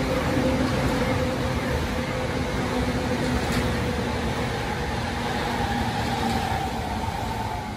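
Electric commuter train passing beneath at speed: a steady rumble of wheels on rail with a steady motor tone, and a higher whine that comes in about halfway through and sags slightly near the end.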